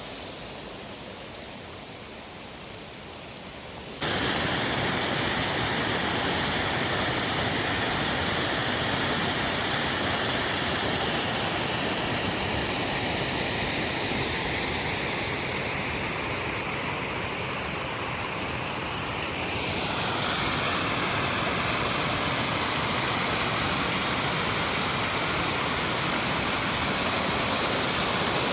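Waterfall pouring steadily: an even, loud rush of falling water that becomes suddenly louder about four seconds in.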